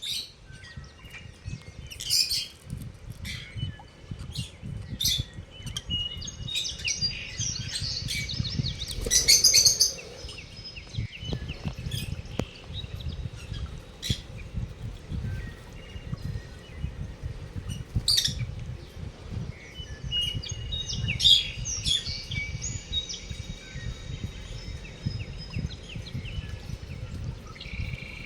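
Lovebirds chirping: sharp high calls every second or two, with two longer runs of rapid twittering, one about a quarter of the way in and another past the middle.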